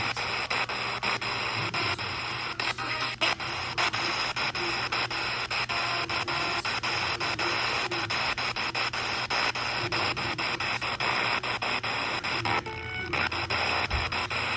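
Radio receiver static: a steady hiss full of rapid crackling clicks, with a brief change in the noise about three seconds in and again near the end.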